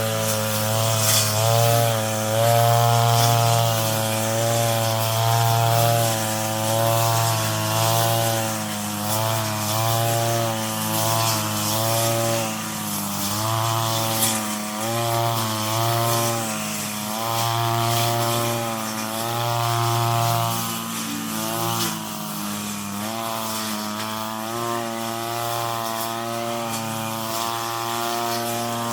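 Brush cutter engine running at high speed, its pitch repeatedly dipping and recovering as the cutting head bites into weeds, with an occasional sharp tick.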